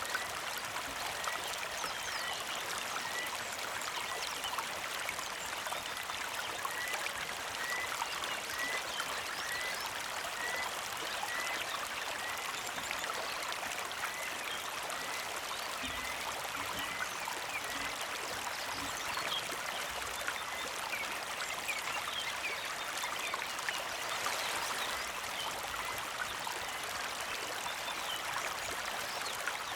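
Shallow creek flowing and trickling steadily over rocks. A bird repeats a short high chirp a little under twice a second through the first half, with scattered other chirps throughout.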